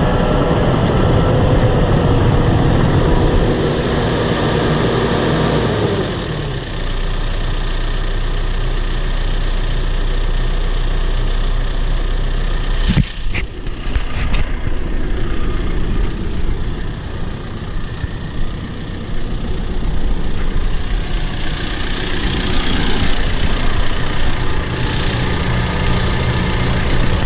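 Bulldozer's diesel engine running, with its reverse alarm beeping for about the first second. The engine drops back about six seconds in and runs steadier. A sharp knock comes about halfway through, and the engine picks up again near the end.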